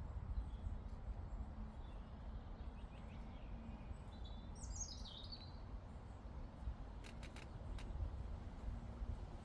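Outdoor meadow ambience with a steady low rumble. A bird gives one short call, falling in pitch, about halfway through, and a few short clicks come near the end.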